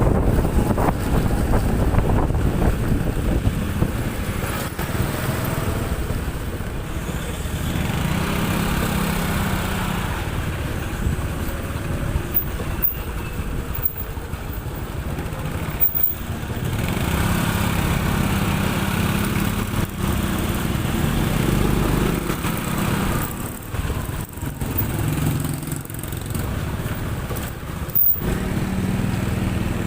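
Motorcycle engine running while riding, its note changing with the throttle and road speed.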